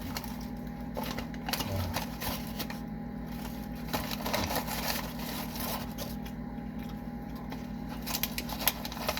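Close, irregular crackling and clicking of fast-food packaging and a plastic sauce cup being handled, over a steady low electrical hum.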